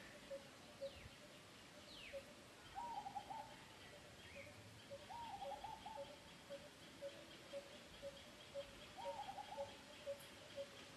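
Faint background birdsong: one bird repeats a short low note about twice a second, while another gives three brief warbling trills. Two quick falling whistles come in the first couple of seconds.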